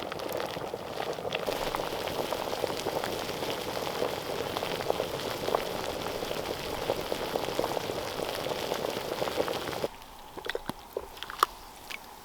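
Water boiling in a carved wooden bucket heated with hot stones: a steady bubbling hiss full of small pops, which cuts off suddenly about ten seconds in. A few light knocks follow.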